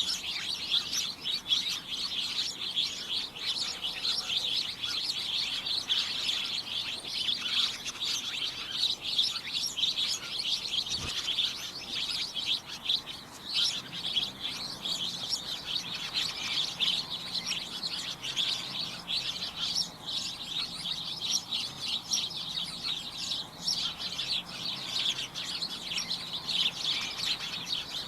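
Many small birds chirping at once, a dense, unbroken cacophony of overlapping high-pitched tweets.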